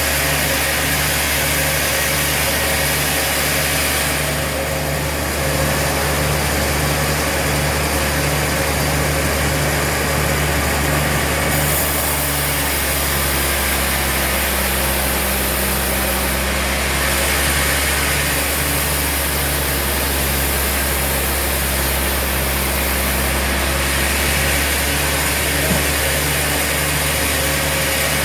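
Sawmill machinery running steadily, a constant mechanical hum with a regular low pulsing.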